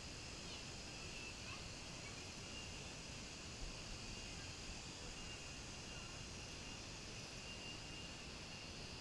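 Faint, steady insect chorus with a thin high trill that fades in and out, over a low rumble. There is one soft knock about three and a half seconds in.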